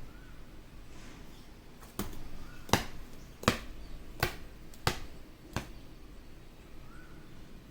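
A ringneck parakeet tapping its beak against a mirror: six sharp taps in an even rhythm, about one every 0.7 seconds.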